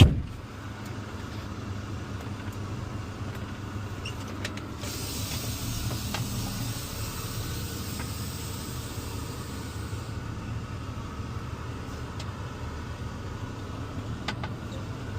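Box truck engine running steadily at idle, heard from the cab, after a loud thump at the very start. A high hiss comes in about five seconds in and stops about five seconds later.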